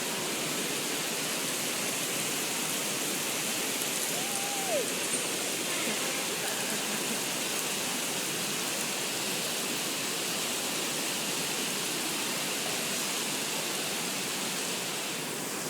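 Steady, dense hiss of artificial rain showering down indoors from an art installation's ceiling onto the floor.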